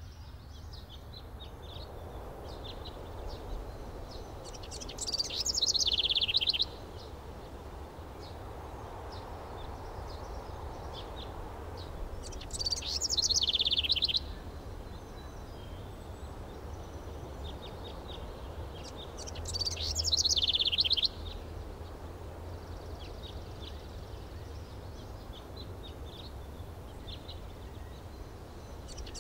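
A songbird singing a fast, high trill that slides downward, repeated three times about seven seconds apart, over a steady low background rumble.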